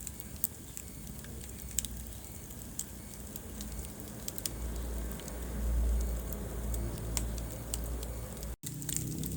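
Wood fire crackling in a fireplace: scattered sharp pops and snaps over a low, steady rumble of flame. The sound drops out for an instant near the end.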